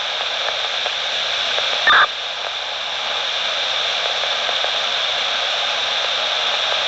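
Steady radio static hiss from an open police dispatch channel, with a brief crackle about two seconds in.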